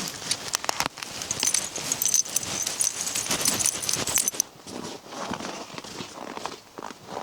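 Crinkling and clicking handling noises, with a thin high hiss from about one and a half to four seconds in, then softer rustling.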